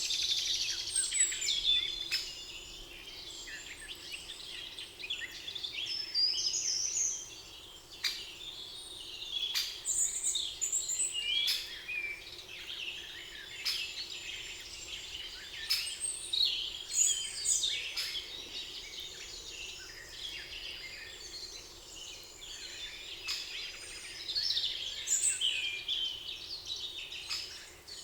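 Several songbirds singing and chirping at once in a spring forest, a busy overlapping chorus of short high trills and calls with no pause.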